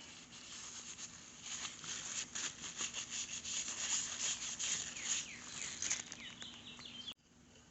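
A cloth rubbing and scrubbing in quick, irregular strokes as a motorcycle's front brake fluid reservoir is wiped clean. A few quick falling chirps, like a small bird's, come near the end, and the sound cuts off suddenly.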